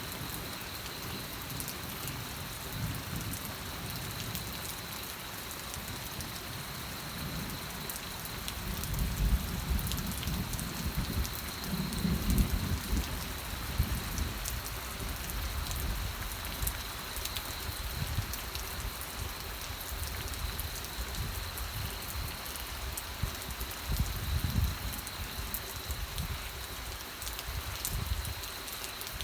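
Steady rain falling on surfaces, with low rumbles of distant thunder swelling about a third of the way in and again briefly near the end.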